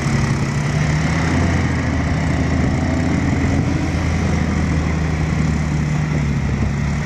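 A heavy diesel engine running steadily at an even, low drone.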